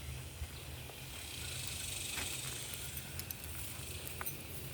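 Outdoor trail ambience: a steady high hiss of insects over a low rumble, with a few faint ticks.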